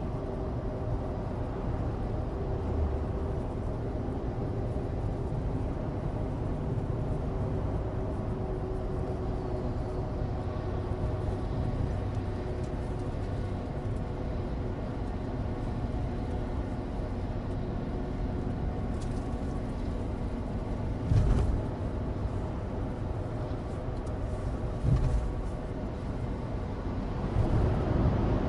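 Cabin sound of a 2016 Suzuki Alto Turbo RS (HA36S) cruising: the small turbocharged three-cylinder engine running steadily over low road rumble from studless winter tyres on dry asphalt. Two short thumps from the road come in the latter part, and the engine gets louder near the end.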